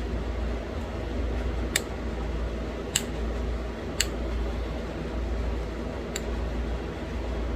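Four sharp, separate clicks of flakes snapping off a small stone point under pressure flaking, spaced a second or two apart, over a steady low hum.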